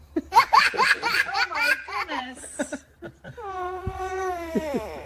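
A baby laughing in a run of quick pitched bursts, then one long held note lasting about a second and a half that drops in pitch as it ends.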